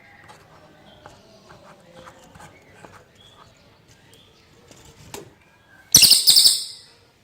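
A cililin songbird giving short, quick chirps and twitters, with a loud harsh burst about six seconds in that lasts about a second.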